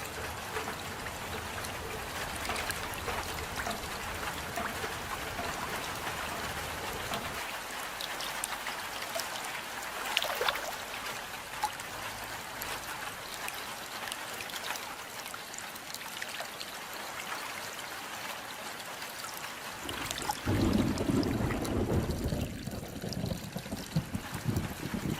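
Steady rain with many drops and trickling water. About twenty seconds in, a louder low rumble comes in under the rain.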